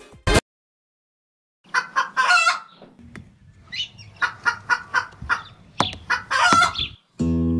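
A short sharp sound right at the start, then a bird's rapid repeated calls, about four or five a second, which stop abruptly shortly before the end.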